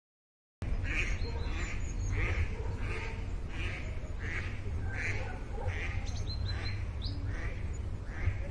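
Duck quacking over and over, about one and a half quacks a second, over a steady low rumble, with a few short high chirps around the middle. It starts suddenly after a brief silence.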